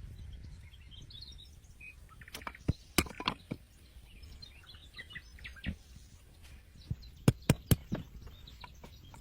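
Small birds chirping over a steady low outdoor background, with sharp knocks in two short clusters, a handful about three seconds in and three quick ones near the end.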